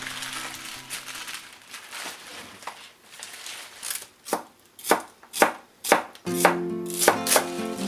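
Kitchen knife chopping daikon radish leaf stems on a wooden cutting board: crisp separate chops about two a second, starting about halfway in, after a rustle of the leaves being gathered by hand. Background music comes in near the end.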